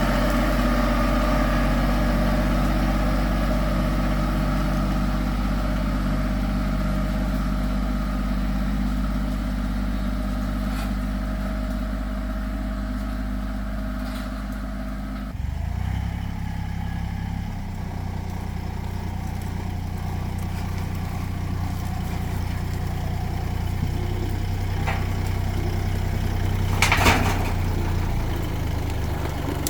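Tractor engine running steadily; about halfway through its note changes abruptly, as with a change of throttle or gear. Near the end there is a brief sharp noise, the loudest moment.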